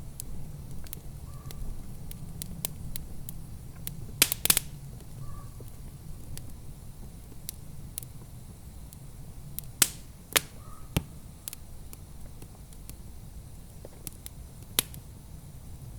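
Wood fire crackling in a fireplace: a low steady rumble with scattered sharp pops and snaps, the loudest a quick cluster about four seconds in and single loud pops near ten and fifteen seconds.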